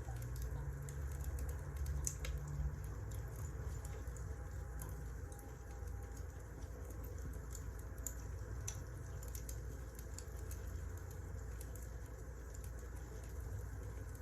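Wood fire crackling: irregular small pops and snaps over a steady low rumble of the burning logs.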